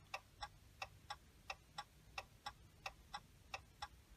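Hazard-light flasher of a 2017 Ram 1500 ticking faintly and evenly, about three clicks a second, with the hazards switched on as the key-programming procedure requires.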